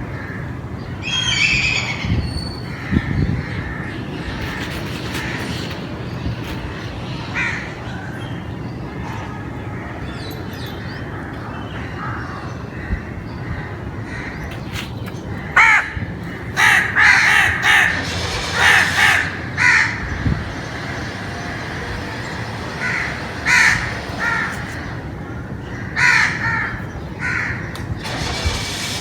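Crows cawing: short harsh calls, scattered at first and then coming in quick runs through the middle and again near the end, over a steady background noise.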